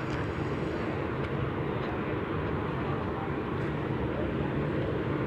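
A steady engine rumble with a few faint ticks.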